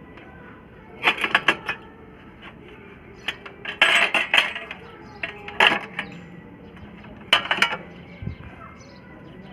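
Clusters of sharp metallic clinks and clanks, a few quick strikes at a time, recurring every second or two.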